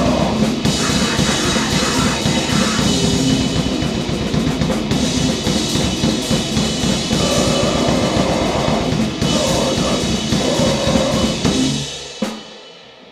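Grindcore/noise band playing flat out: fast, dense drumming with cymbals under a wall of distorted noise. The song stops abruptly about a second before the end, leaving a fading ring and one last sharp hit.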